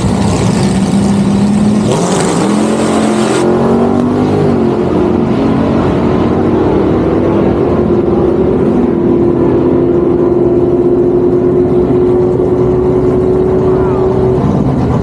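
Car engine at full throttle on a drag strip run. The pitch climbs for several seconds from about two seconds in, then holds steady before stopping shortly before the end.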